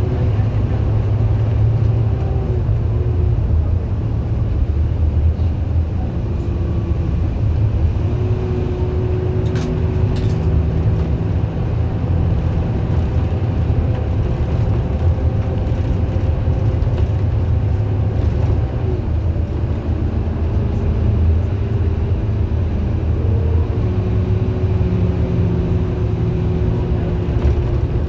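MAN A91 bus's diesel engine running under way, heard on board as a steady low drone with faint engine tones that shift a little with road speed. The radiator fan is running loud throughout.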